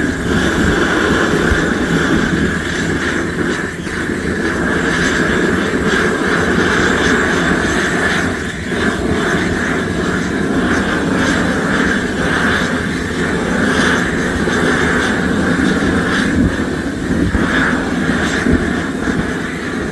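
Plastic-processing machinery running with a loud, steady drone.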